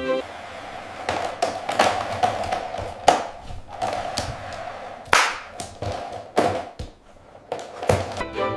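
A series of irregular taps and thuds, some sharper and louder than others, over a steady hiss.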